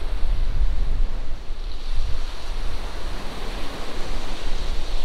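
Wind rumbling on the microphone over the steady wash of sea waves breaking on the shore.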